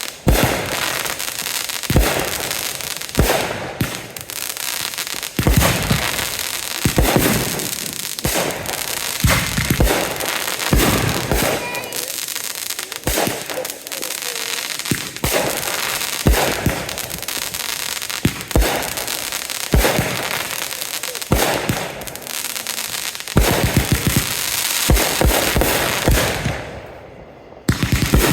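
Fireworks going off in rapid succession: a dense string of sharp bangs over continuous crackling. There is a brief lull about a second before the end, then the bangs start again.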